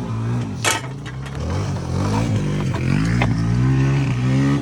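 The lawnmower's engine running and revving up and down, with a couple of sharp knocks and clatter about a second in and again past three seconds.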